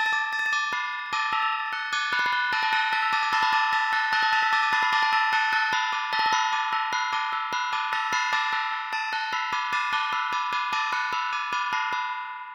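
Nord Drum 3P drum synthesizer playing a fast, even rhythm pattern on a pitched, ringing preset kit: rapid repeated hits over sustained tones. It cuts off suddenly near the end.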